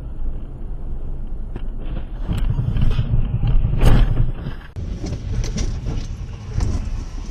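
Dashcam recording from inside a moving car: steady low road and engine rumble, with a few clicks and one sharp, loud impact about four seconds in.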